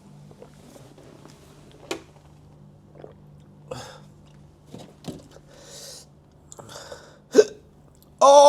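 A man's short, sharp breaths and hisses through the mouth, with a few small clicks and one brief vocal noise near the end, as his mouth burns from very spicy food. A low steady hum runs underneath.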